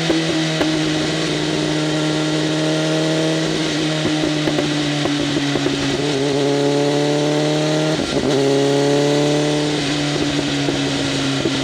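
BMW M1000RR's inline-four engine running through an SC-Project CRT exhaust with its flaps open, holding a steady note while riding, with a short break in the sound about eight seconds in.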